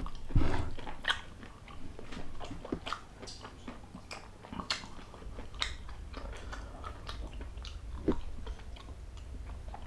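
Close-miked chewing and mouth sounds: irregular soft clicks and smacks, the loudest just after the start.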